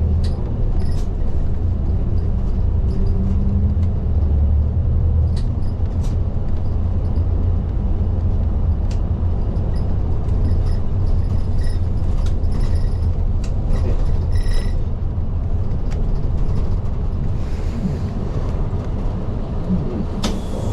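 Inside a moving city bus (type LDG-KV234Q3): a steady low rumble of engine and road noise, with scattered light rattles and ticks from the cabin.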